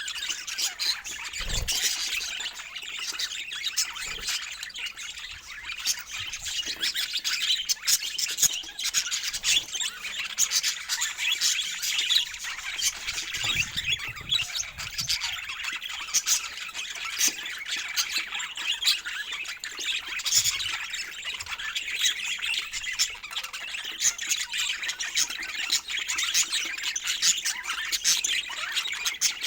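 A group of budgerigars chattering without a break: a dense mix of warbles, chirps and squawks.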